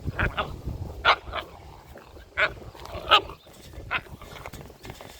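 Puppies giving a string of short, sharp yips and barks, spaced irregularly over a few seconds.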